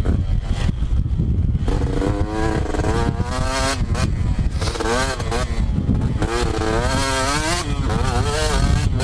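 Two-stroke dirt bike engine being ridden hard, its pitch rising and falling several times as the throttle opens and closes, over a heavy low rumble.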